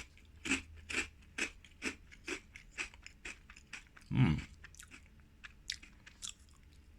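Crunchy chewing of battered, fried seaweed tempura sheets, close to the microphone, about two crisp crunches a second. There is one louder, deeper mouth sound about four seconds in.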